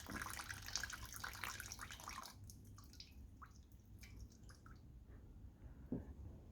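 Fuel trickling and dripping from a Honda GX110 carburetor that has just been taken off the engine, faint. The trickle thins out after about two seconds, leaving scattered drips and one soft knock near the end.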